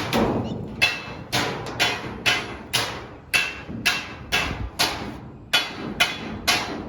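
Hammer blows on sheet-metal ductwork, about two a second in a slightly uneven rhythm, each strike ringing briefly.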